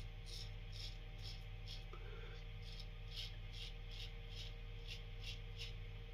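Adjustable safety razor drawn across lathered stubble in short scraping strokes, about two a second, over a low steady hum.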